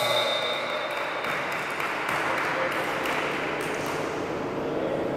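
Indoor basketball game ambience: spectators' voices mixed with court noise and a few short, sharp sounds.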